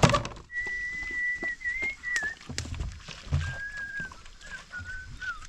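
Whistling: one thin, steady whistled note held for about two seconds, then shorter, lower notes that waver and dip, over scattered knocks and thumps.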